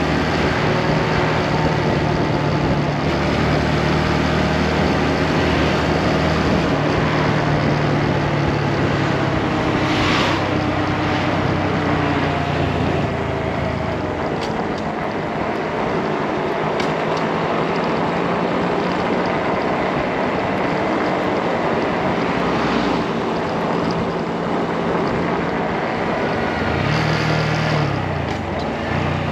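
Motorcycle engine running under way, with wind noise rushing over the microphone. The engine note eases off about halfway through, then dips and comes back near the end.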